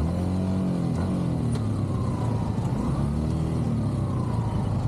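Motor vehicle engine running, its pitch sliding down, rising again about three seconds in, then falling once more.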